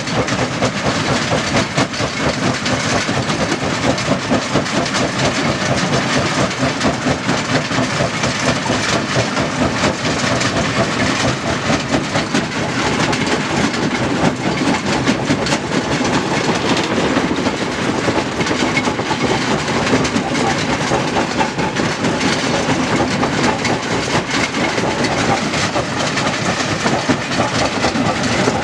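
Stone crusher running, with a steady, dense clatter of rock being broken and shaken through the machinery.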